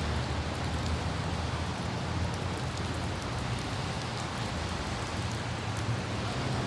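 Steady light rain with scattered droplet ticks, over the low, even rumble of a car driving on a wet road with wind.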